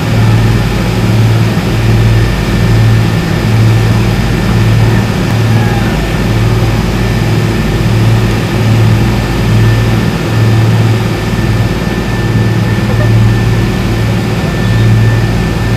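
Glass-bottom tour boat's engine running steadily under way, with a low hum that swells and fades about once a second.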